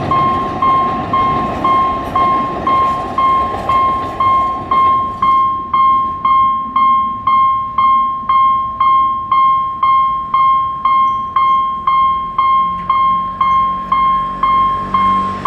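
Railway level-crossing warning bell ringing at about two strokes a second, each stroke a single clear ding, sounding while the crossing is active. For the first five seconds the rumble of a passing train lies under it, then fades.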